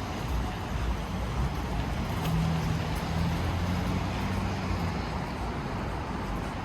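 Steady city traffic noise, with a motor vehicle's low engine hum swelling through the middle and fading again.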